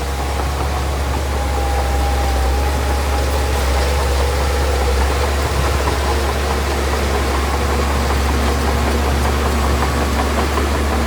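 Diesel engine of heavy earthmoving machinery running steadily, a deep drone with a faint whine above it.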